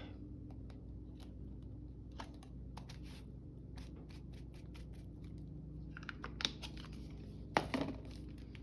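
Scattered light clicks and taps with a short rustle of paper, from hands working with paper and craft materials at a table, over a steady low hum.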